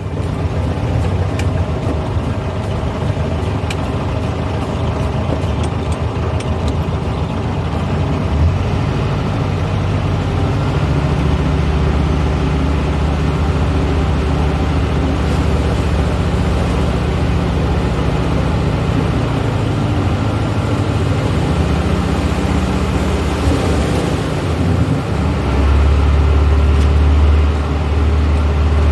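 A 1970s Volkswagen's engine running while the car is driven. Its drone shifts pitch a couple of times and turns louder and deeper near the end.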